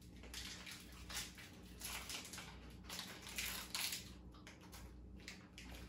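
Irregular crisp crunching from a cookie-cream cocoa wafer roll being bitten and chewed, mixed with a plastic snack wrapper crinkling as it is torn open.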